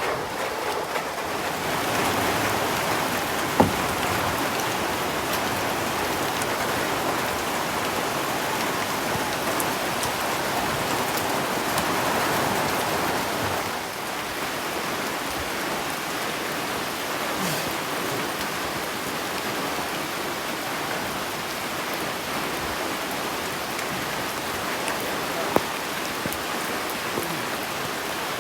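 Steady rain falling, with a few sharp drops striking close by; it eases slightly about halfway through.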